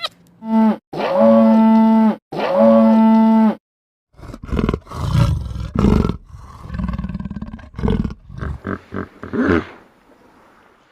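Animal calls: three steady, drawn-out pitched calls in the first few seconds, then a large animal's deep, rough calls, ending in a run of short pulsed calls about eight seconds in.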